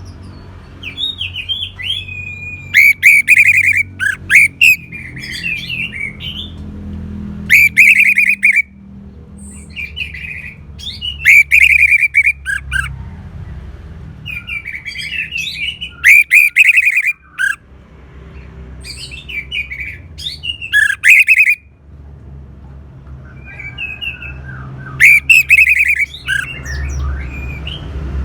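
Orange-headed thrush singing loud, varied phrases of whistles and trills, one after another with short pauses, over a faint low background rumble.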